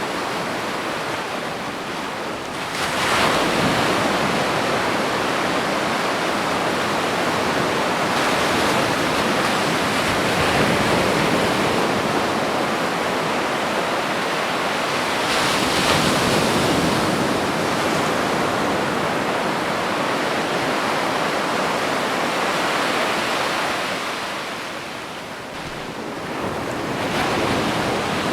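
Ocean surf on a beach: a continuous wash of water, with waves breaking about three seconds in and again around the middle, easing off near the end before building once more.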